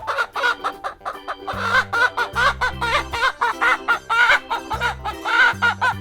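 Domestic hen clucking in a quick run of short clucks, over background music with a repeating bass line.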